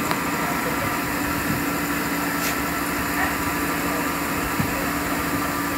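Steady hum of a passenger train heard from an open coach door: a constant drone over an even hiss, without wheel clatter.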